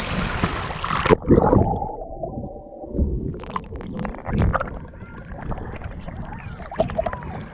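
Seawater splashing over the microphone about a second in, after which everything turns muffled as it goes underwater: low gurgling and bubbling with dull knocks.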